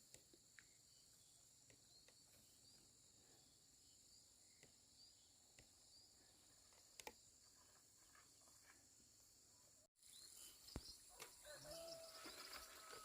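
Near silence: faint outdoor ambience with a steady high insect chirring and scattered faint chirps. After a brief cut about ten seconds in, the ambience grows louder, with a few short calls.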